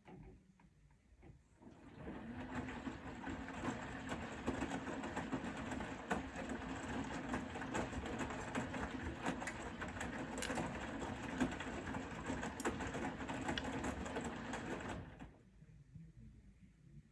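Bosch Serie 4 (WAK20260TR) washing machine's drum turning at wash speed: a steady motor hum with swishing and light knocks from the laundry. It starts about two seconds in, runs for about thirteen seconds and stops for the pause between turns.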